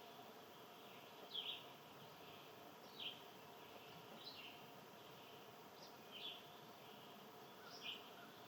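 A bird repeating a short call about every one and a half seconds, five times, over a faint steady outdoor hiss.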